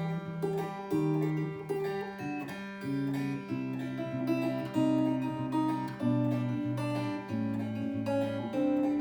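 Acoustic guitar playing an instrumental tune, notes plucked and strummed in an even rhythm with the chord changing about every half second.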